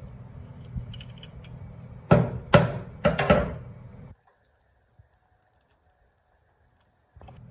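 Three loud clattering knocks in quick succession over a steady low hum, then the sound cuts out to silence for about three seconds.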